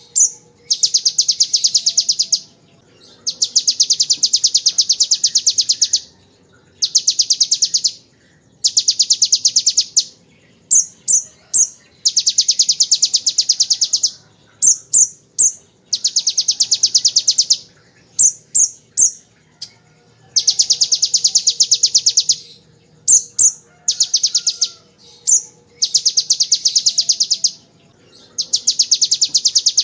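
Kolibri ninja sunbird singing in the prinia-like 'ngebren' style: long, very fast machine-gun trills of high clicks, each lasting two to three seconds, alternating with short groups of sharp chirps.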